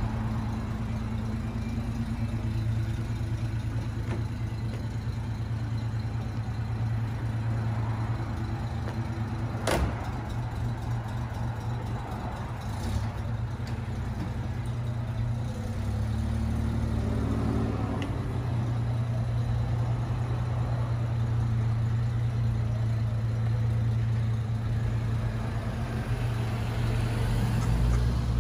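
Rolls-Royce 20/25's straight-six engine idling steadily, with a single sharp click about ten seconds in as the hood is fastened. Near the end the car pulls away at low speed and the engine note rises slightly.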